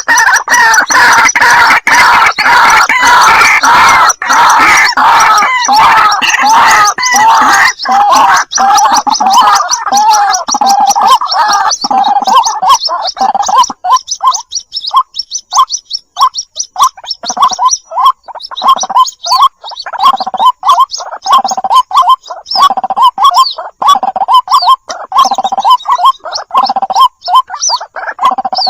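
White-breasted waterhen calls, loud and close. For about the first half many calls overlap in a dense chatter; then it thins to separate short calls repeating at a little more than one a second.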